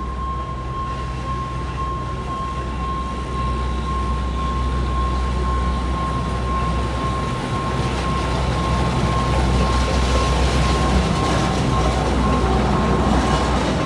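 A train on the Alishan Forest Railway running with a steady rumble that grows louder through the second half. Above it is a thin steady high tone, which stops near the end.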